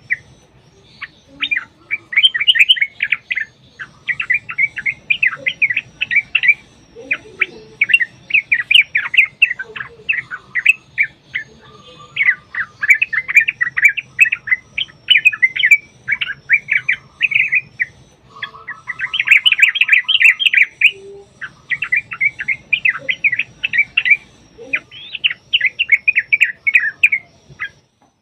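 Yellow-vented bulbuls (trucukan) singing long, fast, bubbling chattering phrases, one after another with short breaks. A lower, quicker trill comes in briefly twice.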